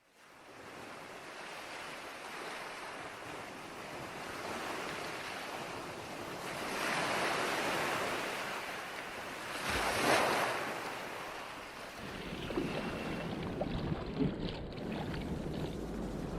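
Ocean surf washing onto the shore, swelling twice, about 7 and 10 seconds in, with wind buffeting the microphone.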